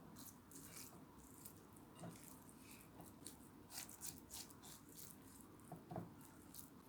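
Faint handling noises: scattered soft clicks and ticks, with a light knock about two seconds in and another about six seconds in.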